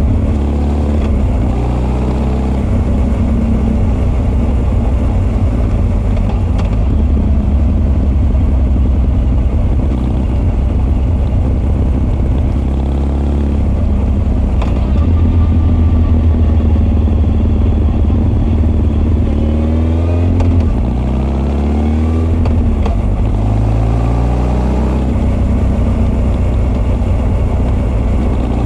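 Honda CB1300 SF (SC40) inline-four with Keihin FCR41 carburettors and a Wyvern full exhaust, heard on board: running at steady revs, then the revs drop about two-thirds of the way through and climb again as it accelerates away.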